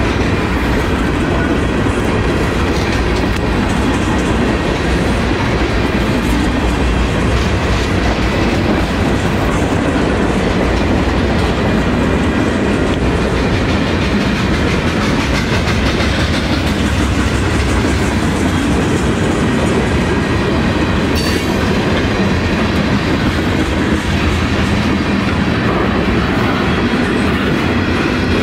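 Freight train of tank cars rolling past at close range: a steady, loud rumble and clatter of steel wheels on the rails that runs without a break.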